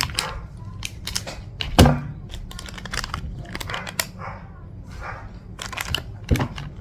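Plastic candy wrapper crinkling and tearing as it is handled and opened, with a couple of dull knocks, one about two seconds in and one near the end.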